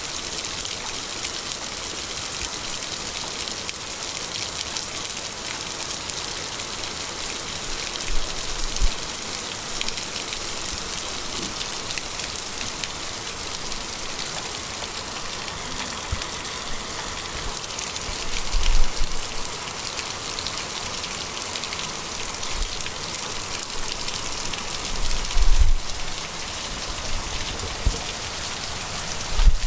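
A downpour: steady, dense rain pattering on wet pavement and puddles. Four brief low thumps break through it, about a quarter, two thirds, and near the end.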